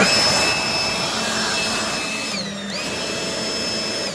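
Car driving at very high speed: loud rushing wind and road noise with a steady high-pitched whine that dips in pitch and recovers about two and a half seconds in, then dips again at the end.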